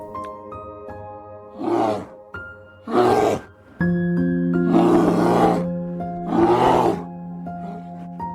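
An animal's loud, rasping calls, four of them, each under a second long, over background music of steady single notes.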